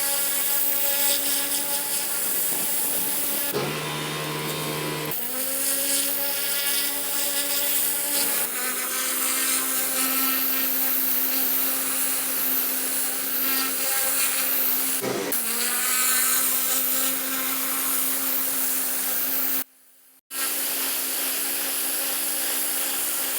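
Gas-engine pressure washer running steadily while its high-pressure water spray blasts concrete, a continuous hiss over the engine's hum. The engine note shifts to a new pitch a few times, and the sound drops out briefly near the end.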